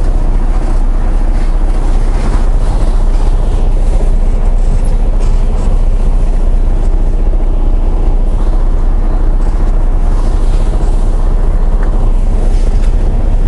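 Semi truck's diesel engine idling steadily: a loud, even low-pitched running sound with no change in pace.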